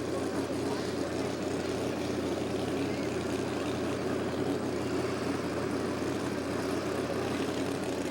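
Pulling tractor's engine running steadily at constant speed.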